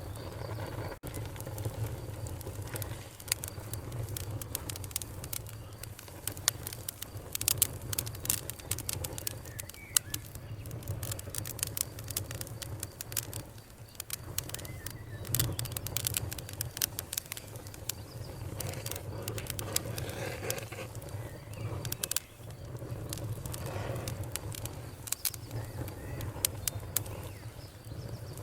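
Wood fire crackling: sharp, irregular pops and snaps, in thicker clusters at times, over a steady low rumble of the burning.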